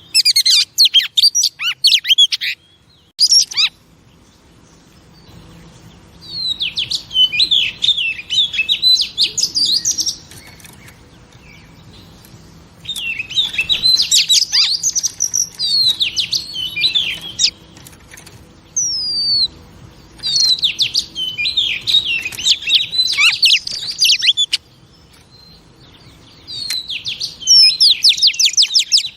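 Female Oriental magpie-robin singing in about six bursts of a few seconds each: rapid, varied chirps and short whistled slurs with brief pauses between the phrases.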